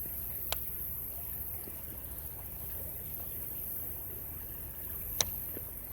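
Steady rush of flowing creek water, with two short sharp clicks, one about half a second in and a louder one near the end.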